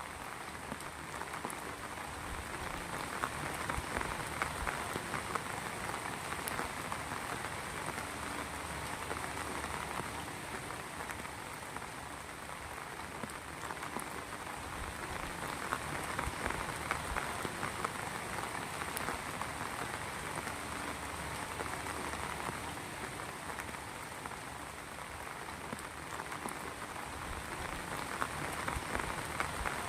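Heavy rain falling steadily, a dense patter of drops hitting surfaces, swelling and easing a little every several seconds.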